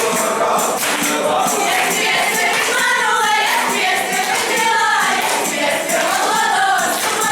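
Folk song music with a group of voices singing.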